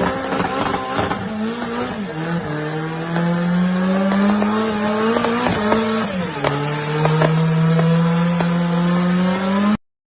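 Suzuki Samurai engine accelerating hard, its pitch climbing steadily and dropping at two upshifts, about two and six seconds in. The sound cuts off suddenly near the end.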